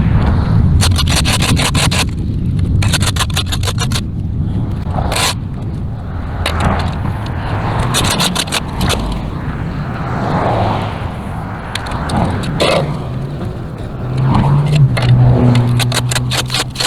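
Gas string trimmer running, with bursts of rapid ticking and scraping as the line strikes hard edges. The engine note rises and holds about fourteen seconds in.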